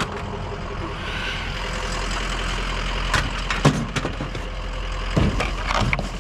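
A vehicle engine idling steadily with a low rumble, with a few sharp knocks and clanks about three, four and five seconds in.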